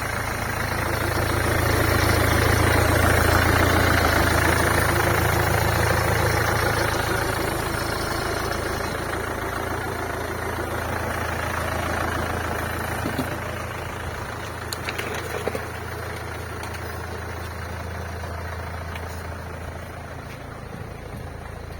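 Mercedes C-Class engine running steadily at idle with a knock, the fault the recording is made to show. It is loudest in the first few seconds and fades slowly, with a few brief sharp ticks about two-thirds of the way in.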